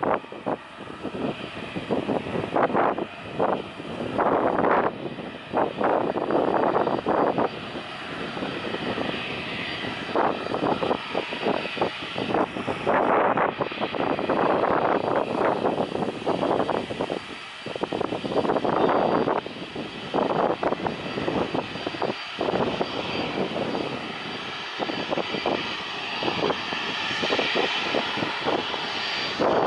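Airliner engines running steadily, with a faint high whine and wind gusting on the microphone.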